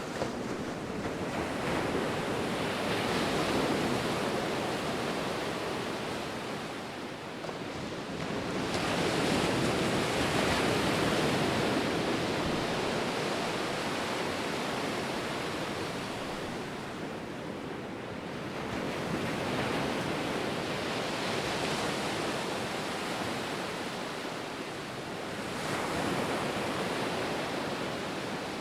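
Ocean surf: waves breaking and washing back, the rushing sound swelling and easing about every eight to nine seconds.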